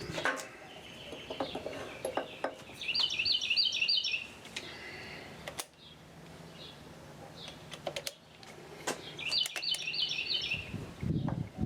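A bird calling twice, each time a quick run of about six high chirps, once about three seconds in and again about nine seconds in. Scattered sharp clicks and knocks sound between the calls.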